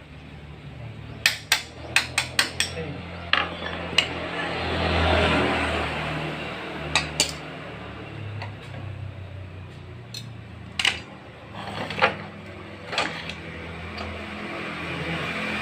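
Metal tools and engine parts clinking and tapping, with a quick run of about seven sharp clinks a second or so in, then single clinks every second or two.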